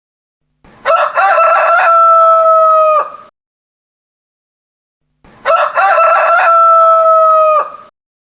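A rooster crowing twice, about a second in and again a few seconds later. Each cock-a-doodle-doo lasts about two and a half seconds and ends on a long held note that drops off at the end, with dead silence between the crows.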